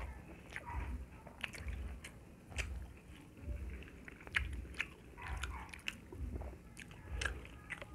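Close-miked chewing of pork and rice, with wet lip smacks and sharp mouth clicks over a low thud from each chew, about once a second.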